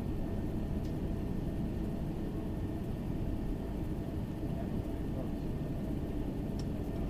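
Steady low rumble inside the cabin of an Airbus A380-861 with its Engine Alliance GP7200 engines running, heard from a window seat toward the rear. Two faint ticks sound, one about a second in and one near the end.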